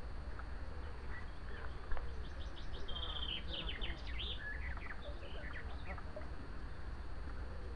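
A small bird singing a quick run of high chirps and short notes for a few seconds, starting about two and a half seconds in, over a steady low rumble.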